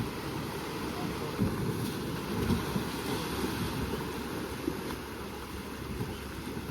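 Ocean waves washing with wind buffeting the microphone, a steady rough rumble with irregular gusts.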